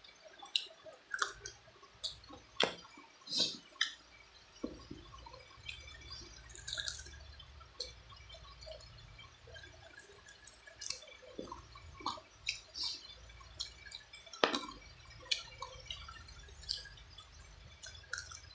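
Mouth sounds from eating chicken feet: wet chewing, lip smacks and sucking, coming as irregular sharp smacks and clicks.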